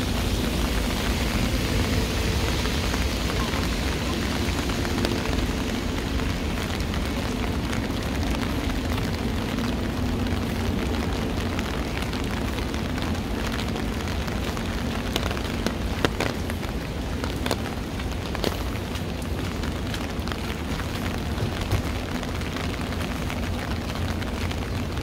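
Heavy rain falling steadily, a dense hiss scattered with sharp drop ticks, over a low rumble of city traffic.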